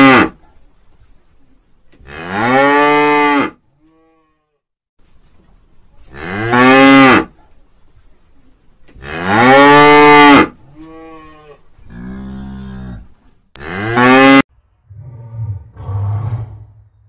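Cow mooing: about four loud, long moos a few seconds apart, each rising then falling in pitch, with a couple of softer moos between them. Near the end come lower, rougher grunting calls.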